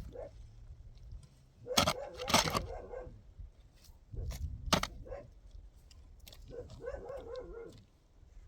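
A dog barking: a few sharp barks about two seconds in and near five seconds, then a longer run of barks near the end.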